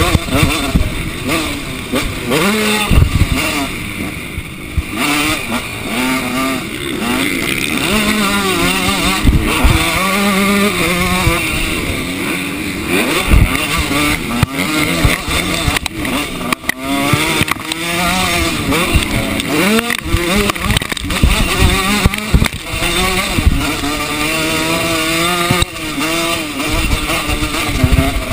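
Motocross bike engine revving hard and dropping off again and again as it is ridden round the track, heard from a camera mounted on the bike, with a few sharp knocks along the way.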